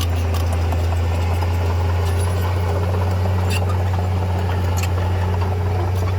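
Diesel engine of heavy earthmoving machinery running steadily with a deep, even drone, with a few faint clicks or clanks over it.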